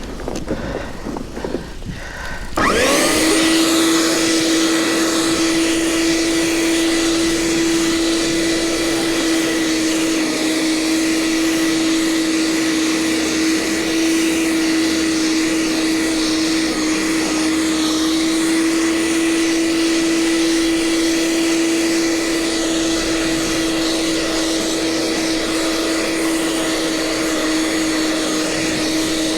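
A snow blower's motor starts about two and a half seconds in, spinning up within a moment to a steady high whine, and runs on evenly.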